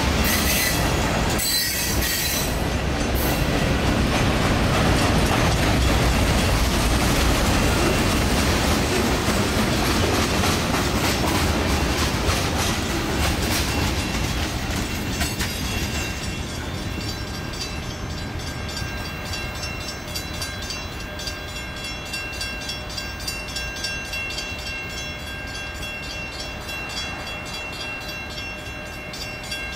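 Freight cars rolling past, their wheels clicking over the rails, with a brief high wheel squeal a second or two in. The last car goes by about halfway through and the rumble dies away, leaving a quieter background with a few steady high tones.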